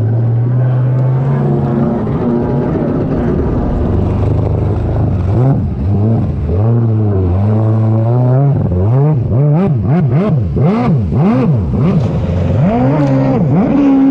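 Stand-up racing jet ski engine idling, then revving up as it pulls away. From about eight seconds in, its pitch swoops up and down repeatedly, about twice a second, as the throttle is worked hard.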